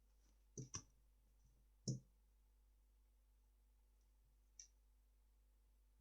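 A few isolated sharp clicks and taps from handling a 3x3 speedcube between solves: two close together about half a second in, a louder one near two seconds, and a faint one later.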